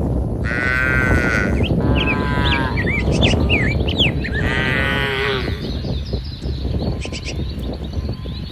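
Cattle mooing: three drawn-out calls, the last falling away at its end, with birds chirping briefly between the first and last calls.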